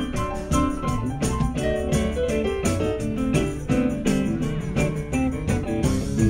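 Live rock band playing an instrumental passage, with guitar, keyboards and drums over a steady beat.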